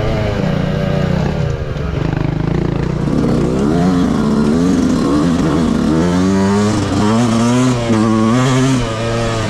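Yamaha YZ125 two-stroke dirt bike engine revving up and down under the rider's throttle while riding off-road. The pitch drops briefly about two seconds in, then rises and falls again roughly once a second.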